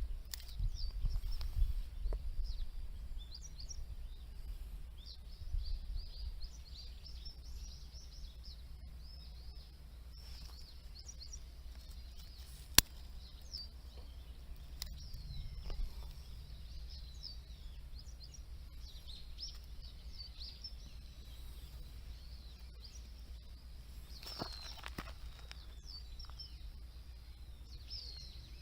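Small birds chirping and singing over and over above a steady low rumble, with a single sharp pop about halfway through.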